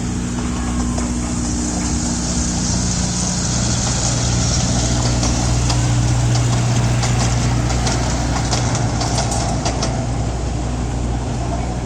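A steady low engine hum, like a motor vehicle idling, with a few faint light ticks in the middle.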